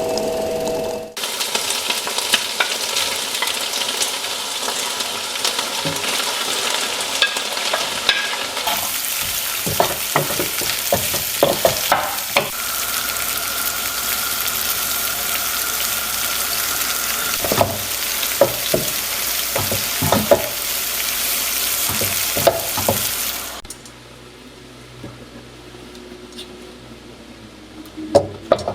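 Food sizzling in a hot pan as it is stir-fried, with scattered clicks and scrapes of a utensil against the pan. The sizzle stops suddenly about 24 seconds in, leaving a quieter background with a couple of clinks near the end.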